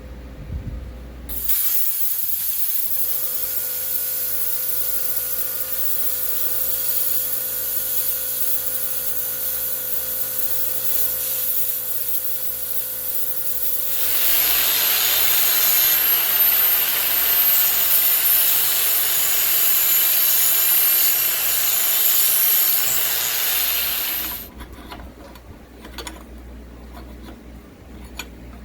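Angle grinder cleaning up a fresh weld on a rusted control arm mount. The motor starts about a second in and spins freely with a steady whine, then grinds against the metal, louder and hissier, for about ten seconds before it shuts off.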